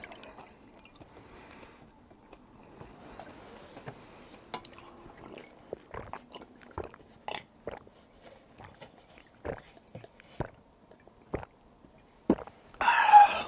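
Close-up chewing of tteokbokki, spicy stir-fried rice cakes: wet smacks and small clicks of the mouth at an uneven pace. Near the end a short voiced sound.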